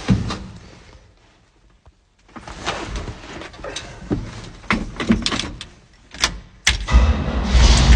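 A few clunks and knocks, then about seven seconds in the old winch truck's engine starts and keeps running with a loud, low, steady sound.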